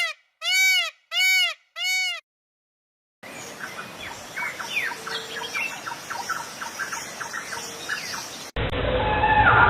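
Four short, clear calls, each rising and then falling in pitch, then a second of silence. Then a hissy outdoor background with many quick bird chirps, cut off near the end by a sudden switch to a duller, different recording.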